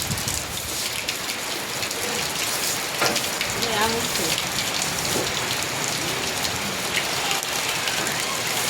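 Heavy rain falling steadily, with a few faint voices in the background.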